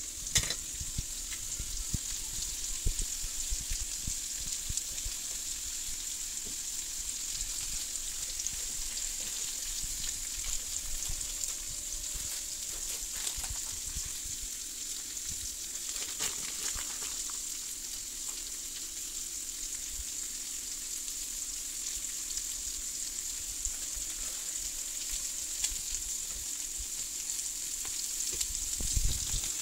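Lamb chops and cubed potatoes frying in a hot pan, with a steady high sizzle. There are a few light knocks, one about half a second in, and a low thump near the end.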